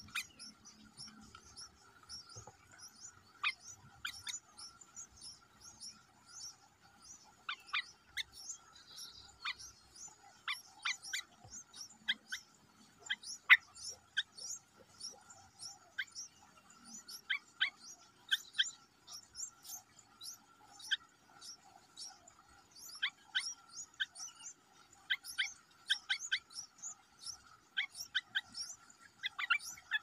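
Small birds chirping: a scatter of short, sharp chirps coming in quick clusters, sparse at first and thicker from about a quarter of the way in. A steady faint high hum runs beneath.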